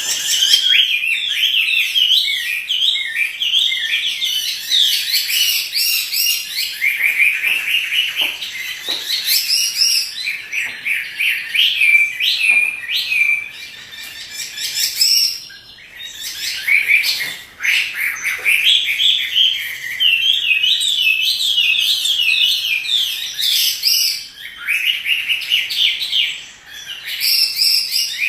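Chinese hwamei (Garrulax canorus) singing a long, rapid run of varied whistled phrases, pausing briefly a few times.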